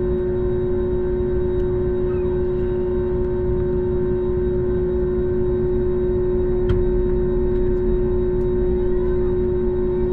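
Airbus A321neo's Pratt & Whitney geared turbofan engines running at idle after startup, heard inside the cabin: a steady drone with a strong, unchanging hum tone over a low rumble.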